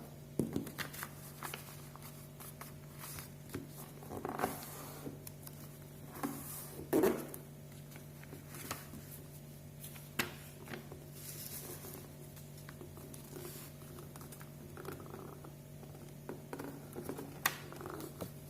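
Sheet of paper being handled, folded and creased by hand: scattered rustles, taps and scrapes, the loudest about four and a half and seven seconds in, over a steady low hum.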